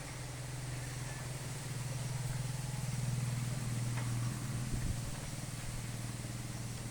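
A low engine hum, growing louder to a peak about three to four seconds in and then easing off, under a faint steady hiss.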